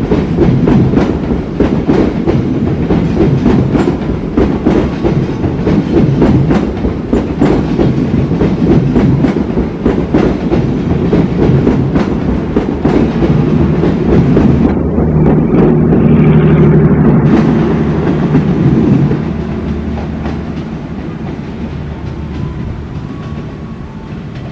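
Passenger train coaches rolling past, wheels clattering rapidly over rail joints and points with a heavy rumble. It is loudest with a low steady hum about two-thirds of the way through, then fades.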